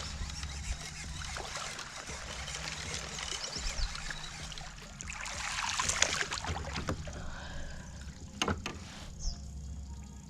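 Water splashing and sloshing against a kayak as a hooked largemouth bass is brought in, with a couple of sharp knocks about eight seconds in.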